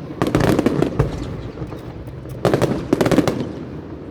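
Aerial fireworks bursting in two rapid volleys of sharp crackling reports, one just after the start and another about two and a half seconds in.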